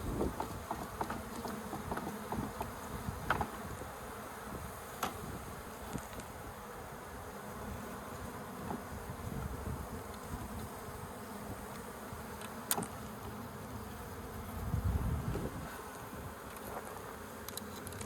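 Honeybee colony buzzing steadily from the opened birdhouse hive, with a few sharp clicks and knocks from the comb being handled.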